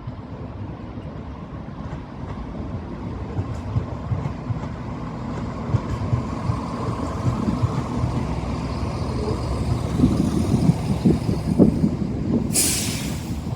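A train running close by, its engine and wheels rumbling and growing louder, with a short sharp hiss near the end.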